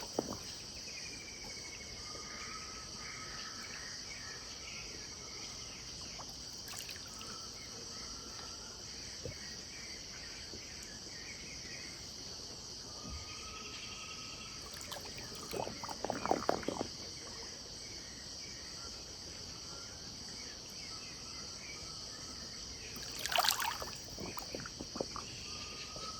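Riverside dusk ambience: a steady, high-pitched insect chorus like crickets, with short whistled bird calls repeating over it. Two brief louder bursts of sharp clatter or splashing come about two-thirds of the way through and again near the end.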